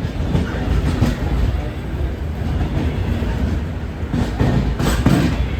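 Passenger train running on the rails: a steady low rumble with the clickety-clack of wheels over rail joints, a couple of louder clacks near the end.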